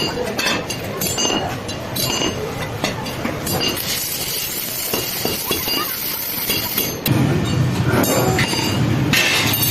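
Workshop noise: a steady mechanical din with metal parts clinking and knocking, heavier and deeper from about seven seconds in.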